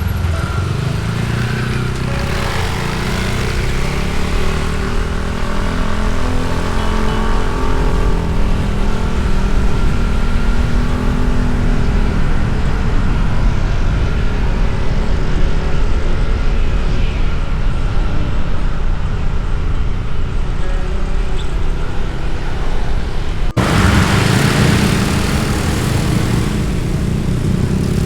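Motorbike engine running under way, its pitch rising and falling slowly with the throttle, over steady wind and road noise. The sound changes abruptly about 23 seconds in.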